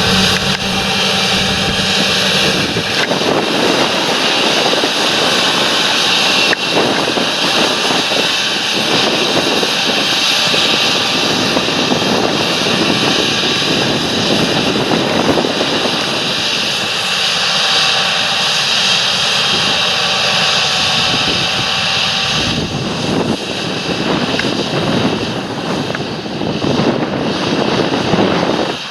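A large John Deere tractor's diesel engine running steadily under load, working the field with its implement. The sound changes in character a couple of seconds in and again about three quarters of the way through.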